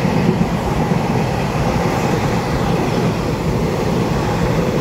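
Taiwan Railway EMU3000 twelve-car electric multiple unit (set EMU3005) passing close by: a steady running noise of wheels on the rails.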